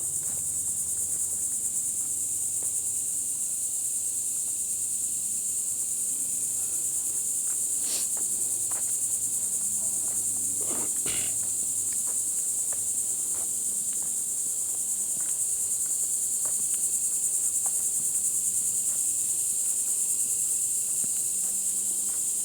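Steady, shrill chorus of insects in the woods, a continuous high-pitched trilling without pause, with a few scattered short knocks, the clearest about 8 and 11 seconds in.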